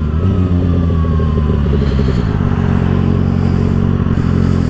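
2024 Kawasaki ZX-6R's 636 cc inline-four running through an aftermarket M4 exhaust at a steady engine speed while riding, dropping off suddenly near the end.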